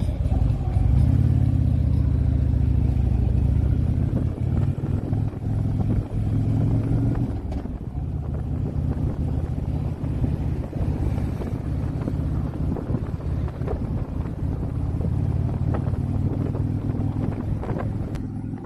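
Motorcycle engine running under way, a steady low rumble that is loudest in the first few seconds.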